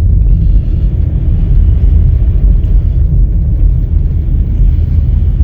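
Vehicle driving on a snowy road: a steady, loud low rumble of engine and road noise.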